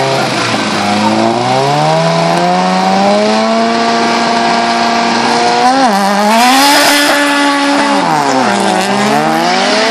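Turbocharged Toyota drag cars' engines revving on the start line: the revs climb, then are held high for several seconds, with a brief dip about six seconds in and a deeper sag and recovery near the end. A loud hiss is heard from about six to eight seconds.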